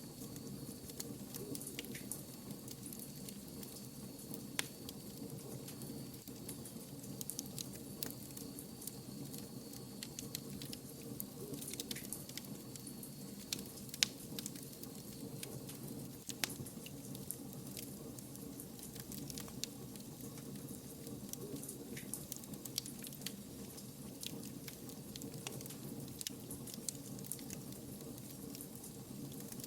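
Wood fire burning, with a steady soft rustle and frequent irregular crackles and pops from the burning logs, one sharper snap about halfway through.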